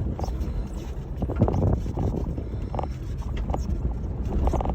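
A 1996 Jeep Grand Cherokee ZJ with the 5.2 V8 driving slowly over a rough dirt trail: a steady low engine and road rumble with scattered knocks and rattles from the body and suspension, busiest about one and a half seconds in.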